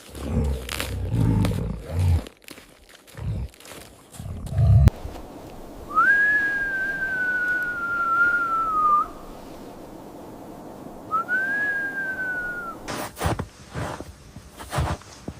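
Crunching and knocking for the first five seconds. Then a wolf howls twice: a pure, high call that rises quickly and slowly sinks, the first lasting about three seconds and the second about a second and a half.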